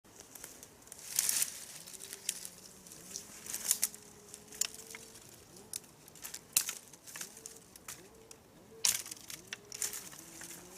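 Dry fallen leaves crunching and crackling underfoot in irregular steps, with the loudest crunches about a second in and near the end. A faint wavering hum runs underneath.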